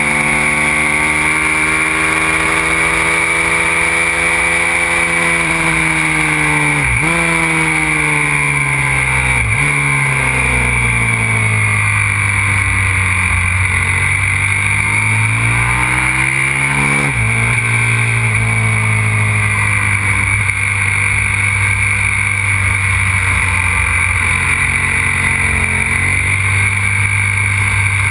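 Aprilia RXV 550 supermoto's V-twin engine under way on track, its pitch rising and falling as it accelerates and slows. There are quick gear changes, where the pitch breaks suddenly, about a quarter, a third and a little past halfway in, and steadier running in the last third.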